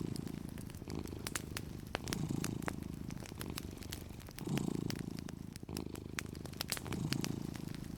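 Domestic cat purring, the low purr swelling and easing with each breath about every two and a half seconds. Wood fire crackling with frequent sharp pops over it.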